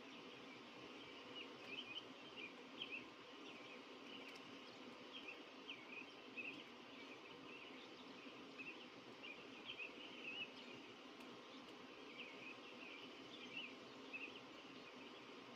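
Small birds chirping faintly, many short high chirps coming irregularly, over a steady low background hum.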